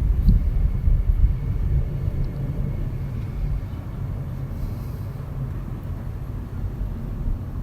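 Low jet-engine rumble of a British Airways Airbus A320-200 after its overflight, slowly fading, with gusty outdoor noise mixed in.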